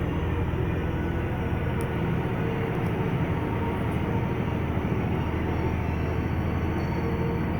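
BharatBenz truck's diesel engine running steadily under way, a constant low drone with road and tyre noise.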